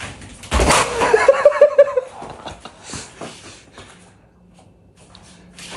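A sudden noisy burst of breath, then a person laughing in a quick run of short, high-pitched pulses for about a second, trailing off into faint scattered clicks.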